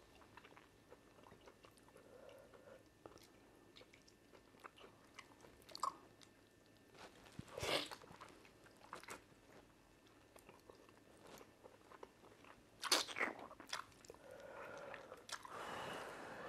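Close-miked mouth sounds of eating fufu and soup by hand: open-mouthed chewing with scattered wet clicks and lip smacks. The two loudest smacks come about eight and thirteen seconds in, and there is finger licking near the end.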